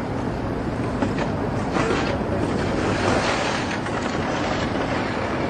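Steady rushing noise of road traffic, with a few slightly louder swells in the middle.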